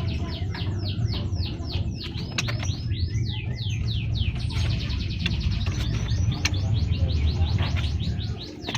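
A caged group of scaly-breasted munias chirping together: a dense, continuous run of short, high, falling chirps, several a second, over a steady low hum.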